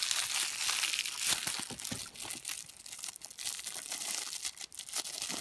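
Plastic packaging crinkling and rustling in the hands as a squishy toy is unwrapped, in a run of irregular crackles.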